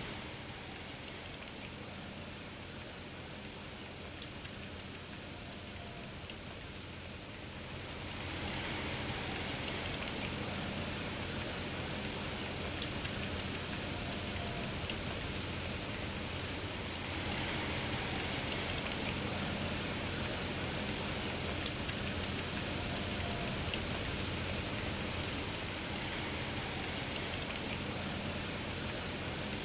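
Steady rain falling, growing a little heavier about a third of the way in and again past the middle, with three sharp ticks standing out several seconds apart.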